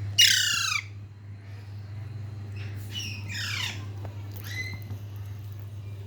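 Pet parrot squawking: a loud, harsh screech just after the start that falls in pitch, then shorter falling calls about three and four and a half seconds in.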